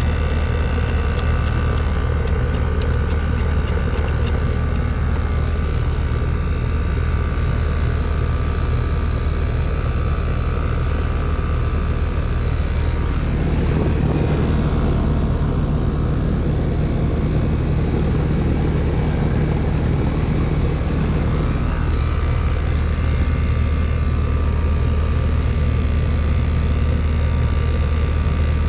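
Air conditioner condenser unit running with its newly replaced fan motor turning, a steady fan rush over a strong low hum.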